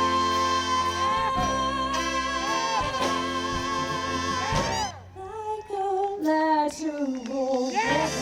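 Live soul band playing: the full band holds a long note, then cuts off about five seconds in, leaving a lone melodic line with vibrato, the close of a song.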